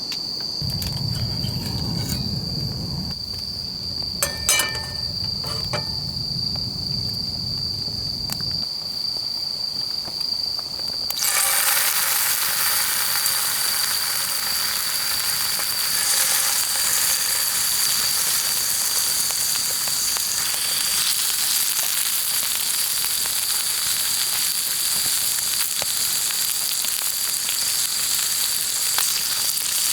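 Meat sizzling and spitting in a hot pan over a campfire, starting suddenly about eleven seconds in and then running steadily. Under it a steady high insect-like trill, with a low rumble and a few light knocks in the first seconds.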